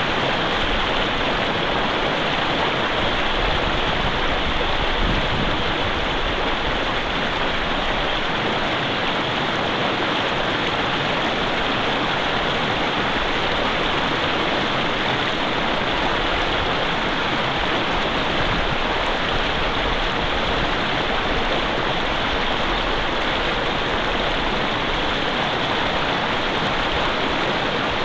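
Mountain river flowing: a steady, unbroken rush of running water.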